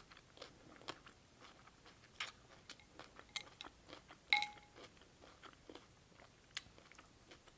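Close-up mouth sounds of chewing and crunching cold cucumber soup, a run of small sharp crunches and clicks. About four seconds in there is a single bright clink that rings briefly.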